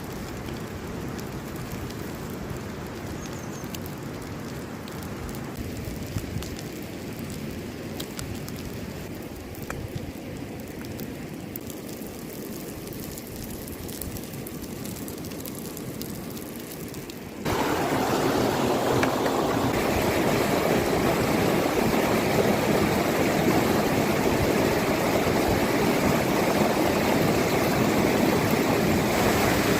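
Steady outdoor water noise with scattered faint ticks. A little past halfway it cuts suddenly to a louder, fuller, steady rush of running water.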